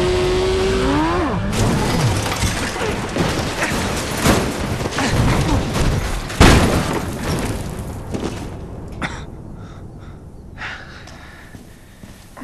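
Film sound effects of a motorcycle crash. The engine's revving whine cuts off abruptly, then come a run of crashing, breaking impacts, the heaviest a big thud about six seconds in, and the sound dies away after that.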